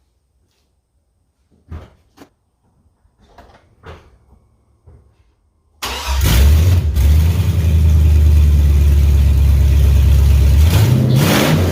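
A few faint knocks, then about six seconds in the 2003 GMC Yukon Denali's 6.0-litre V8 starts with no exhaust fitted and runs loud and steady. Near the end it is revved, rising in pitch.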